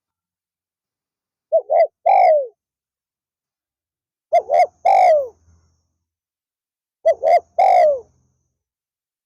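Spotted dove cooing three times, a couple of seconds apart: each phrase is two short coos followed by a longer, falling coo.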